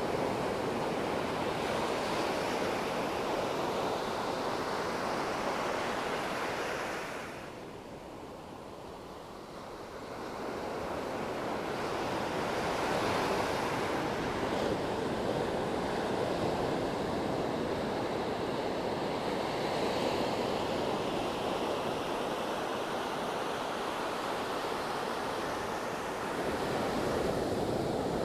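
Sea waves breaking and washing on the shore: a continuous rushing surf that swells and eases, dropping to a quieter lull about a quarter of the way in before building again.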